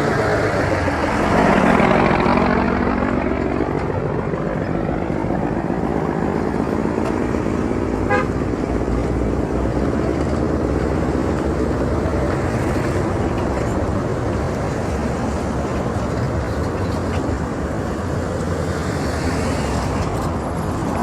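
Steady road traffic with vehicle engines running. One vehicle passes close in the first few seconds, and a short horn beep sounds about eight seconds in.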